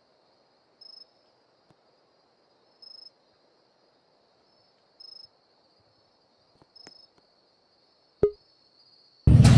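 Crickets: a faint steady high trill with short chirps about every two seconds. A sharp click comes about 8 seconds in, then a car engine suddenly starts up loud near the end.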